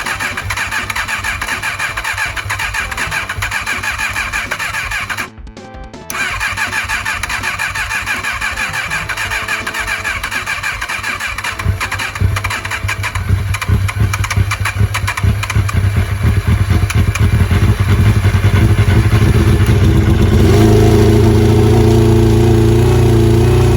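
Kawasaki Balius 250 inline-four being cranked on its electric starter, with a short break about five seconds in; around halfway it begins to catch, and it is running steadily near the end. This is the first start after the carburettors were refitted.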